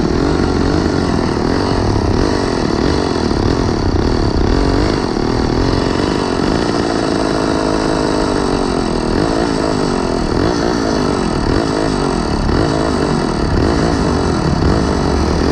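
Small engine of a motorized bicycle idling unevenly, its pitch wavering up and down while it stands in stopped traffic.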